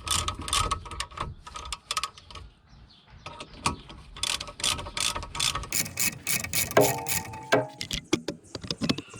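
A ratchet wrench clicking in quick runs of strokes, with a pause of about a second a few seconds in.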